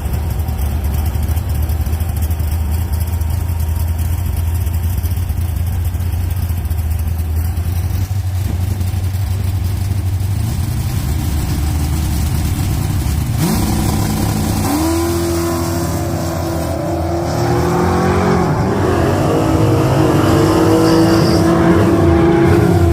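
Car engines rumbling steadily at low revs, then about 13 seconds in they rev up sharply and hold a high, steady engine note under hard acceleration, getting louder near the end.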